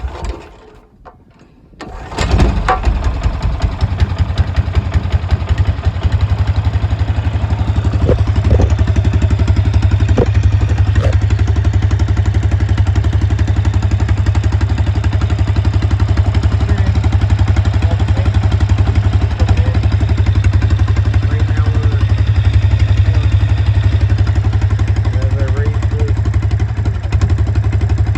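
Straight-piped Honda OHV small inboard engine starting about two seconds in and then running steadily with no muffler, pretty loud.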